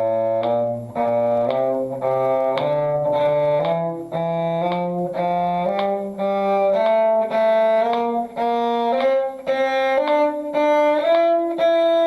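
A bowed string instrument plays an F major scale in even eighth notes, with the notes slurred in pairs, climbing steadily in pitch over two octaves.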